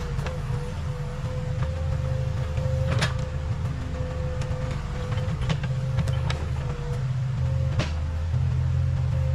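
Case 580 Super K backhoe loader's diesel engine running steadily, with a steady whine and a few sharp knocks.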